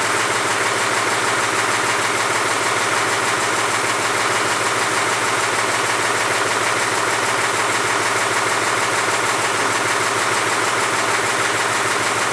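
Mahindra C35 compact tractor's diesel engine idling steadily.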